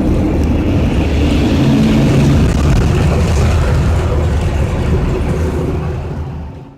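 Engine and road noise of a moving city bus, heard from inside, a steady low rumble that fades out near the end.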